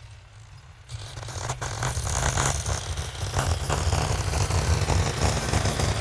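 A heavy machine's engine rumbling low, with rattling and scraping that comes in about a second in and grows much louder.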